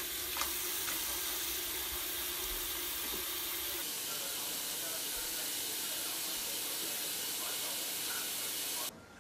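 Food frying in hot oil in a pan: a steady sizzling hiss that cuts off suddenly near the end.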